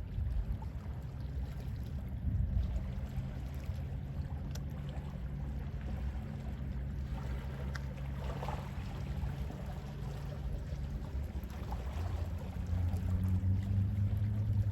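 Gentle sea waves lapping, with a soft wash about eight seconds in, over a steady low rumble that grows louder near the end.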